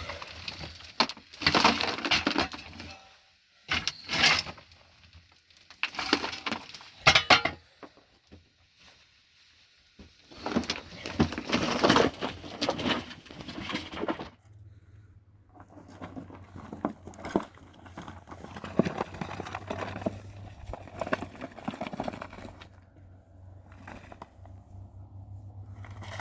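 Bursts of cracking and clattering, hard material being broken and handled, in groups for the first half. After that come quieter scattered knocks over a low steady hum.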